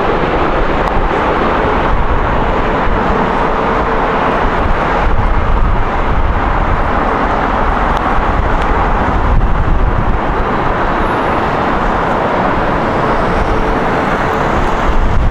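Jet airliner engines heard at close range, a loud, steady rush of noise with a deep rumble underneath.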